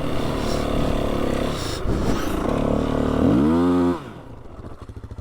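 Off-road vehicle engine pulling hard over soft sand, rising in pitch near the end, then dropping suddenly to a quiet, even idle about four seconds in.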